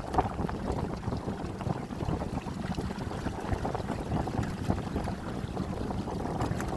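Wind buffeting the microphone as a kayak moves over open water, a steady rough rumble with splashing on the hull.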